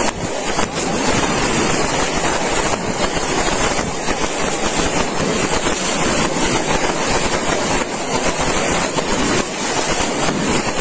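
A long string of firecrackers going off in a dense, continuous crackle of rapid pops, without a break.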